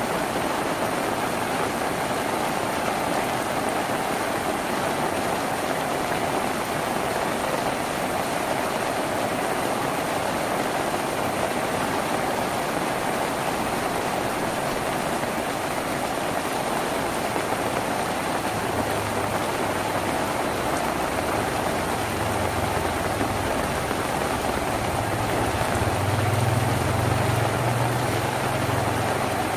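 Steady, heavy rain drumming on a tin roof. A low rumble comes in during the second half and is strongest near the end.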